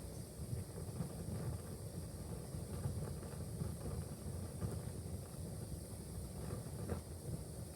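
Wood fire burning in a fireplace: a steady low rumble of the flames with a few faint crackles near the end.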